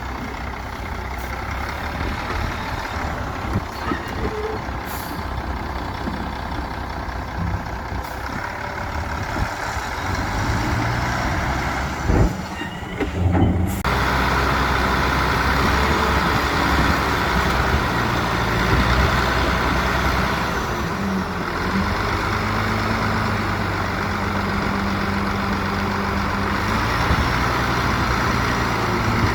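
Heavy diesel construction machinery at work, truck engines running steadily. A short loud clatter comes about halfway through, after which the machine noise grows fuller and steadier.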